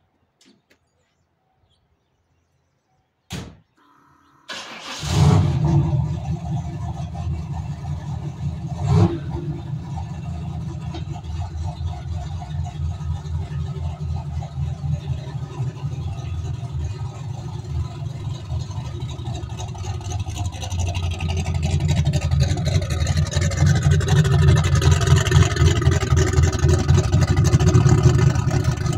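A single knock, then the turbocharged 351 Windsor V8 of a Fox-body Mustang cranks and catches about five seconds in, gets a short blip of the throttle a few seconds later, and settles into a steady pulsing idle. In the last several seconds the engine note rises and grows louder under light throttle as the car pulls away.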